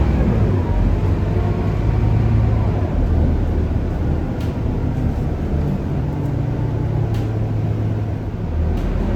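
Scania K230UB city bus's engine and drivetrain running steadily under way, a continuous low drone, with three faint clicks in the second half.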